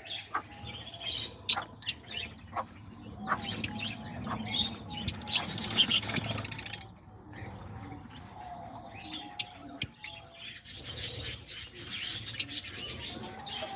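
A flock of lovebirds chattering in an aviary: many short, sharp chirps and calls overlapping, busiest about five to seven seconds in.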